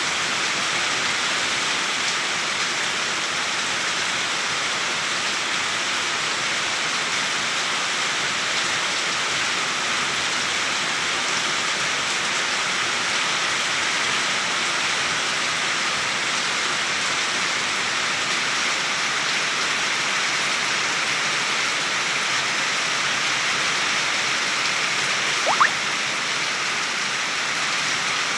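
Steady, even hiss of heavy rain falling. Near the end comes a single short, rising chirp.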